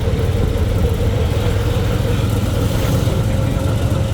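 Motor vehicle engine running with road noise: a steady low rumble and a faint steady hum throughout.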